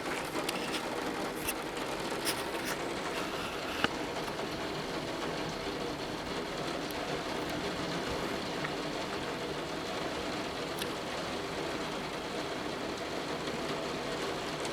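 Torrential rain falling steadily at a very high rate, with a few sharp ticks in the first four seconds.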